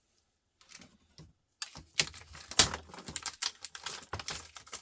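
Irregular sharp clicks and clatter of plastic and small metal laptop parts being worked apart by hand, starting about a second and a half in.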